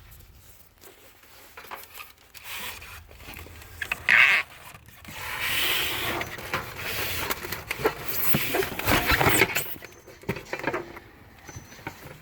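Packaging being handled while unboxing a microwave: irregular rubbing, scraping and rustling, with a sharp loud burst about four seconds in and a longer stretch of louder scraping in the middle.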